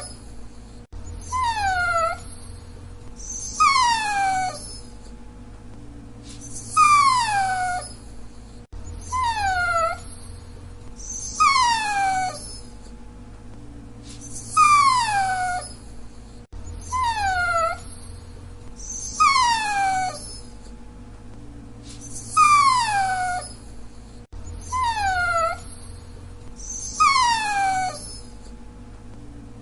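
A dachshund whining over and over: about a dozen short whines, each sliding down in pitch, roughly every two to three seconds. A steady faint hum lies underneath.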